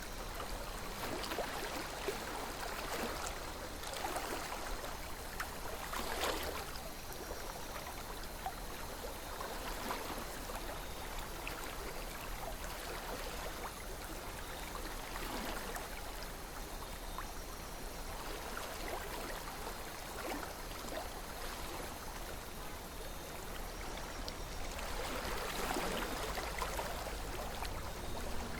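River water flowing, a steady rush with small splashes that swells briefly about six seconds in and again near the end.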